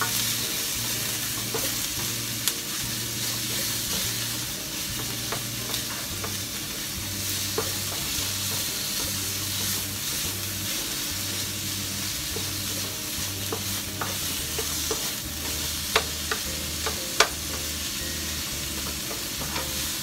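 Sliced pork and onion sizzling in a hot nonstick wok while a wooden spatula stirs and turns them. Scattered clicks of the spatula against the pan, with two sharper knocks near the end.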